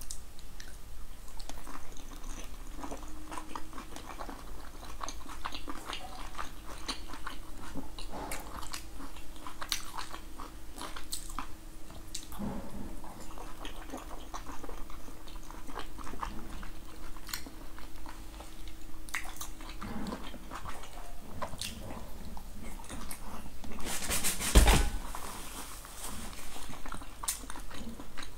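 A person chewing and biting into pan-fried buns, with many small irregular mouth clicks and smacks. One louder noise stands out about 24 seconds in.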